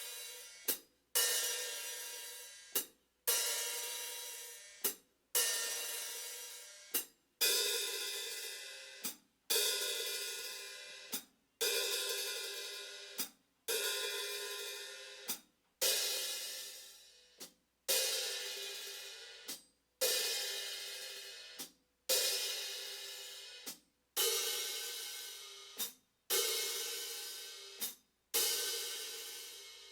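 Zildjian hi-hat cymbals played on their own. About every two seconds comes a long stroke that rings out and decays, alternating with a short, clipped stroke, with brief silences between.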